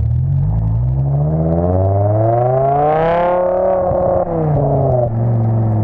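BMW E60 M5's V10 engine with a custom exhaust, revved up slowly from idle, held briefly at the top, then let fall back to idle.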